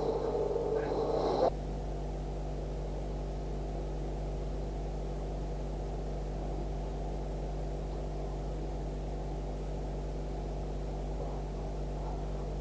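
A steady low hum with faint hiss, made of several fixed tones. For about the first second and a half a louder, uneven sound lies over it and then cuts off abruptly.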